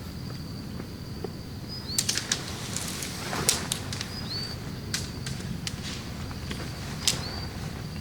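Scattered sharp taps and rustling, about a dozen, thickest a couple of seconds in, over a steady low rumble. A faint high thin tone runs through it, broken now and then by a short upward chirp.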